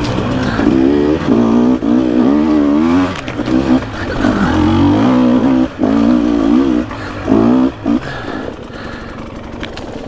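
Off-road dirt bike engine revving up and down as the throttle is worked over rough trail, dropping off briefly a few times and running lower over the last couple of seconds, with some light clatter.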